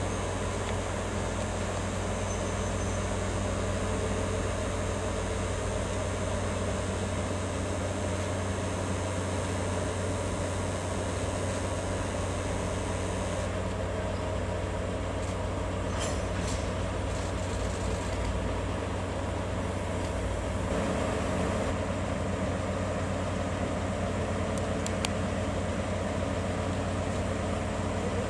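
Engine running steadily with a low hum. A high hiss above it drops away about halfway through.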